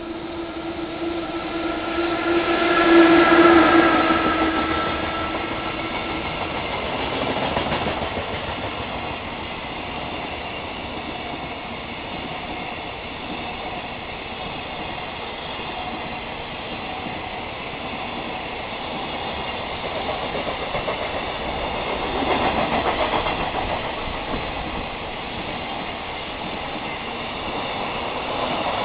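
JR Freight EF66 electric locomotive hauling a container freight train through a station at speed. It is loudest as it passes about three seconds in, with a steady pitched tone. Then a long string of container flatcars rolls past with continuous wheel noise, swelling again about two-thirds of the way through.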